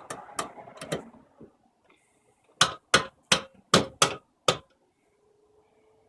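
Sharp mechanical clicks from a 1983 GE Filter-Flo washing machine being handled: a few in the first second, then six evenly spaced clicks about a third of a second apart in the middle.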